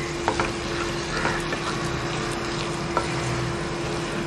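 Chopped tomatoes and onion masala sizzling in oil in a nonstick frying pan while a wooden spatula stirs, knocking against the pan a few times. A steady low hum runs underneath.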